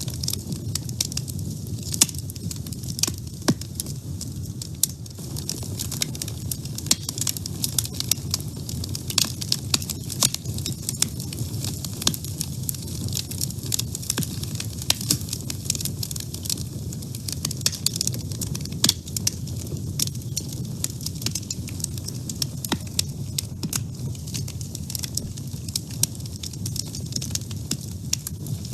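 Wood fire burning in a woodstove: a steady low rumble of the flames under irregular crackles and sharp pops from the burning wood.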